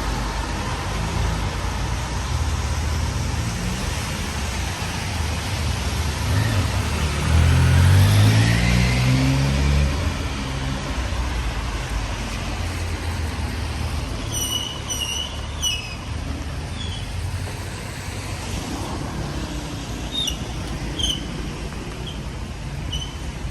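A motor vehicle passing close on a wet, rainy street, its engine note rising and loudest about eight seconds in, over a steady hiss of rain and wet road. Short high chirps come now and then in the second half.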